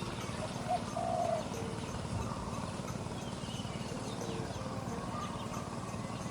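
Doves cooing in short, low, repeated notes, with smaller birds chirping higher and fainter, over a steady background hiss.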